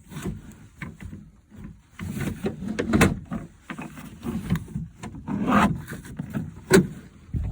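Plastic door trim and the manual window crank of a pickup door being pried and worked by hand: irregular clicks, knocks and scraping, with a few sharper snaps.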